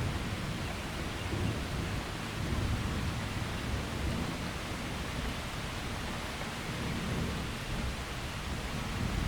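Steady rain falling in a thunderstorm, with a low rumble of thunder underneath.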